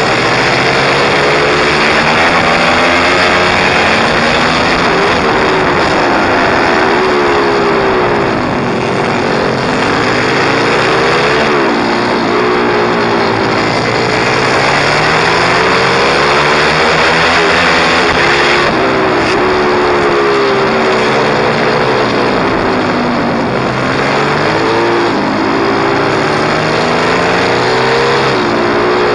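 Pit bike's small single-cylinder four-stroke engine revving hard and falling back again and again, the pitch climbing and dropping every few seconds as the bike is ridden round a track, under a loud rushing noise.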